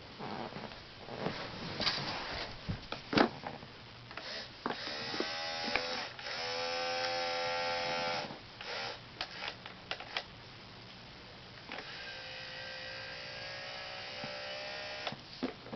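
Small electric motor of a toy Tonka truck whining steadily twice, the first run louder and shorter, the second quieter and longer, with plastic clicks and knocks before and between the runs.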